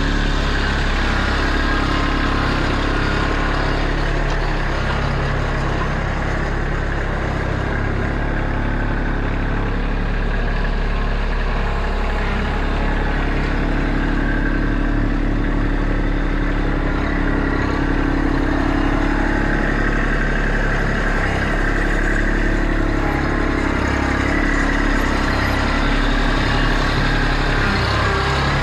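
Kubota B2650 compact tractor's three-cylinder diesel engine running steadily under working load while the front-end loader pushes and mixes the manure pile, with small changes in engine note as the load shifts.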